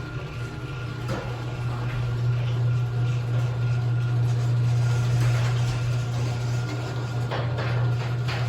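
Chamberlain HD210 garage door opener running as it raises the door: a steady motor hum with a faint higher whine and a few light rattles.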